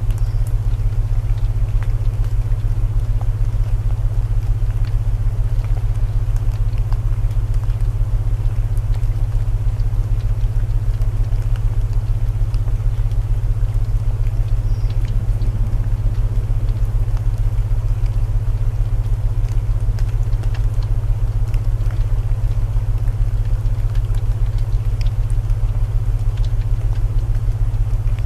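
Layered sleep soundscape: steady low binaural tones humming under the even hiss of rain, with scattered small crackles of burning wood.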